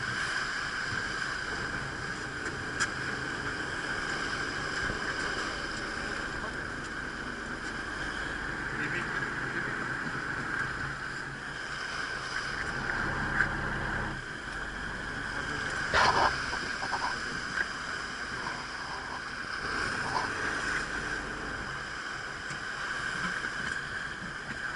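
Ferry boat's engine running steadily, a constant whine over a low rumble. The rumble eases about two-thirds of the way through, and a few sharp knocks sound, the loudest shortly after.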